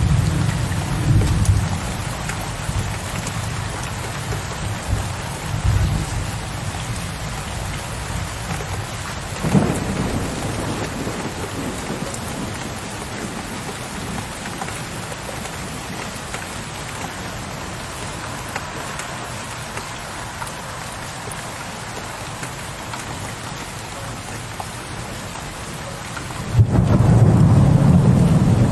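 Steady rain falling during a thunderstorm, with low rolling thunder. A rumble dies away over the first few seconds, a sharper thunderclap comes about a third of the way in, and a heavy rumble starts suddenly near the end.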